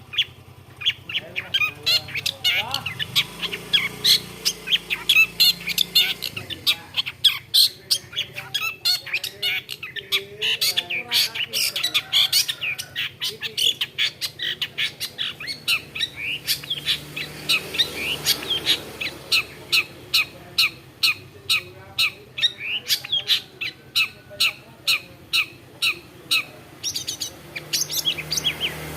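Long-tailed shrike singing: a fast, continuous string of short, sharp high notes, several a second.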